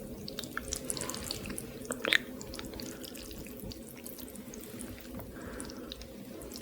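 Close-miked wet eating sounds: chewing with many small mouth clicks and smacks, one sharper smack about two seconds in.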